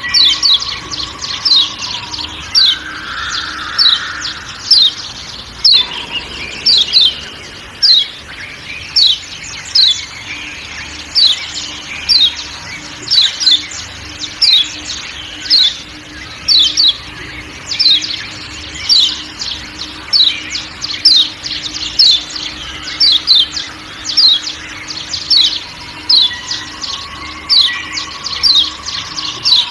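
Kecial kuning (Lombok yellow white-eye, a Zosterops) giving a steady run of sharp 'ciak ciak' calls, each a quick falling chirp, about one or two a second, over a background of forest sounds.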